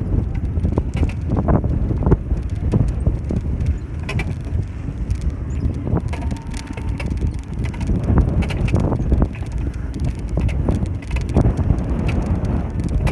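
Bicycle being ridden, its frame and parts rattling and knocking over the road surface, with a steady low rumble of wind on the microphone.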